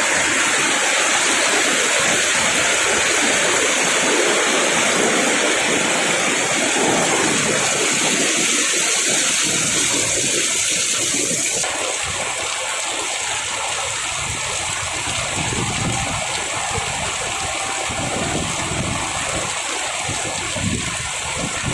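Heavy rain pouring down in a steady, dense hiss of water. About halfway through, the hiss turns abruptly duller and a little quieter.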